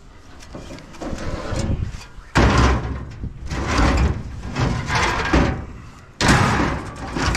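Scrap metal being loaded onto a trailer: two heavy bangs, about two and a half and six seconds in, each dying away over about a second, with lighter clatter between them.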